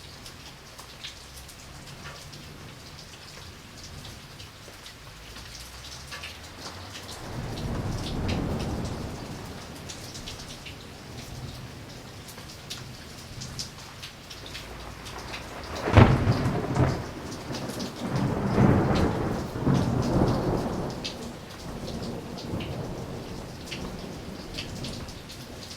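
Steady rain falling, with thunder: a low rumble swells about a third of the way in, then a sharp crack just past the middle rolls on as rumbling for several seconds.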